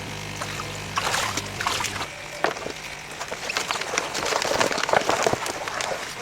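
Water splashing and sloshing in irregular bursts that grow busier toward the end, as catfish are caught from the pond. A steady low motor hum runs underneath and stops about two seconds in.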